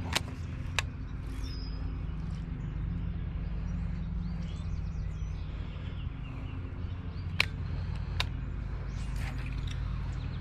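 Outdoor ambience by the water: a steady low rumble with small birds chirping now and then, and four sharp clicks, two near the start and two about three-quarters of the way through.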